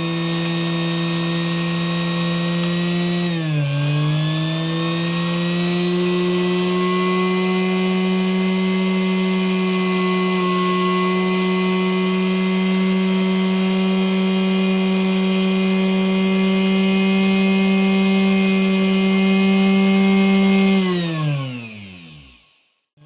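Restored 110-volt Singer 221 sewing machine motor running at full speed, a steady high whine. Its pitch dips briefly about three and a half seconds in. Near the end it winds down, falling in pitch, and stops.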